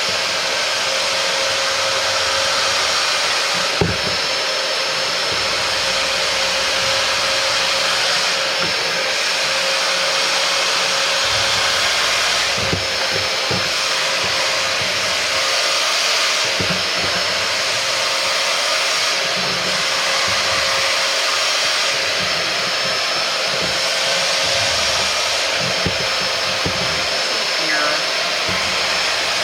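Hoover Powerdash Go carpet spot cleaner running steadily with its suction motor whining, as it is worked over car floor carpet to pull up cleaning solution. A few light knocks sound from the tool moving against the floor.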